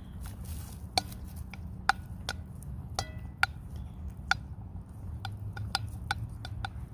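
Hens pecking food scraps off a plate: irregular sharp taps of beaks striking the plate, about one or two a second.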